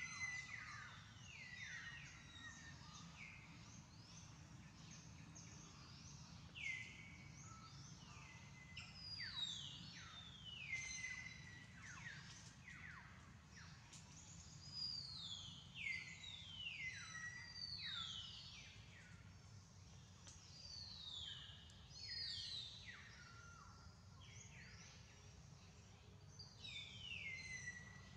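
Faint bird calls in a tree canopy: high whistled notes that each slide steeply downward, coming in runs of several every few seconds, over a steady low hum.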